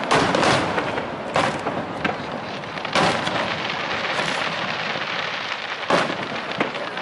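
Aerial firework shells bursting: about six sharp booms, the loudest near the start and again about three and six seconds in, over an even hiss that fills the gaps between them.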